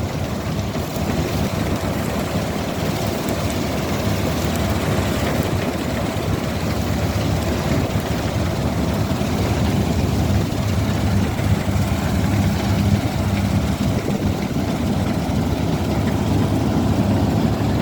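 Combine harvester's engine running steadily: a continuous low drone with a mechanical hum.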